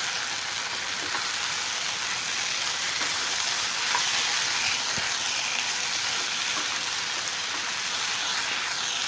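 Boneless chicken masala frying in a nonstick kadai, a steady sizzling hiss as it is stirred and turned with a wooden spatula.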